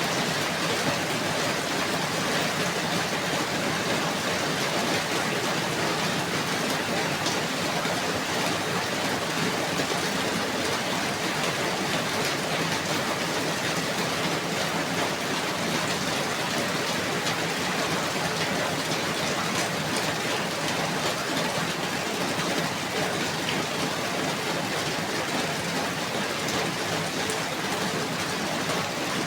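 Steady, even rainfall, with a dense patter of drops.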